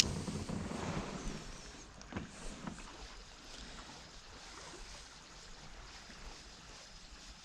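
Kayak paddling on creek water: splashes and drips from the paddle strokes, with a sharp knock right at the start and a few more light knocks over the next couple of seconds, fading to faint water and wind noise.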